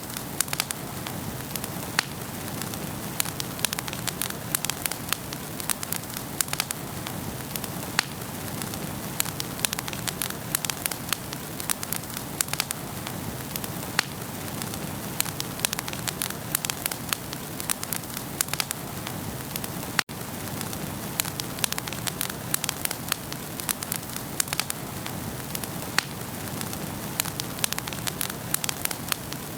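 Wood fire burning in a fireplace: a steady soft hiss with frequent sharp, irregular crackles and pops. There is a split-second break in the sound about two-thirds of the way through.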